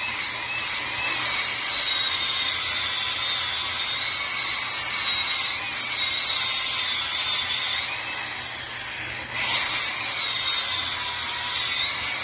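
High-speed handheld power tool working on metal: a steady hiss with a whine that wavers up and down as the load changes. It eases off for a moment about eight seconds in, then picks back up.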